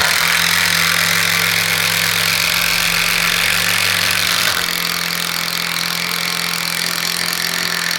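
Cordless brushless impact driver running steadily under load, driving a screw into wood. Its tone changes and drops a little in level about four and a half seconds in.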